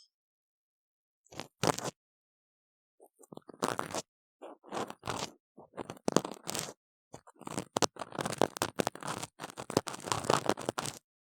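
Close-miked ear cleaning on a silicone ear model: an ear pick scraping and crunching inside the model's ear canal in short strokes. It starts after about a second of silence with a few separate strokes, then the scraping comes faster and almost without pause in the second half.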